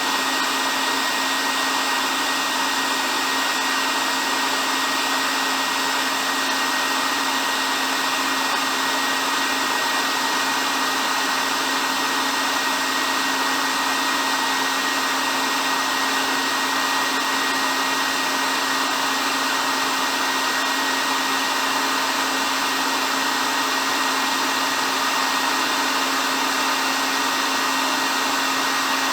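Electric hair dryer running steadily: a constant airy whoosh over a low motor hum and a faint high whine, with no change in speed.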